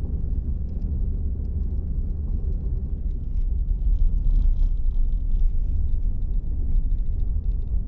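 Vehicle driving along a road: a steady low rumble of engine and tyre noise.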